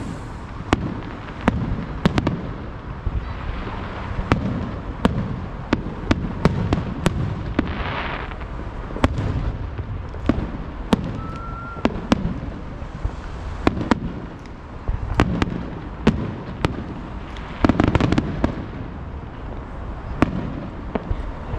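Aerial fireworks going off in a rapid, irregular string of sharp bangs over a constant low rumble of booms. Denser crackling swells come twice, midway and near the end.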